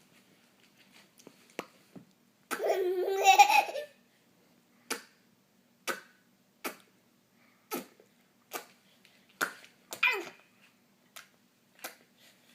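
A person making sounds with the mouth: a short, loud voiced burst, then a run of about nine sharp mouth pops or clicks, roughly one a second.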